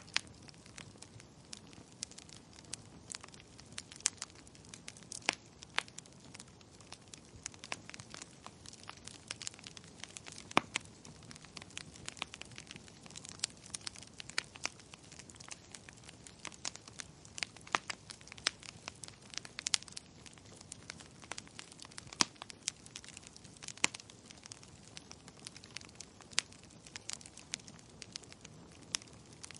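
Burning firewood crackling, with irregular sharp pops over a faint steady hiss.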